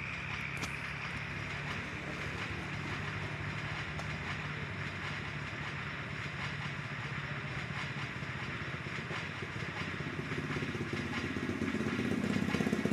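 Small electric motor running steadily with a fast, even whirr, getting louder near the end with a quick regular throb.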